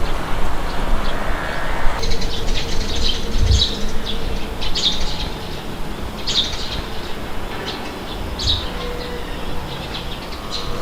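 Wind blowing steadily, with birds chirping in short calls on and off over it.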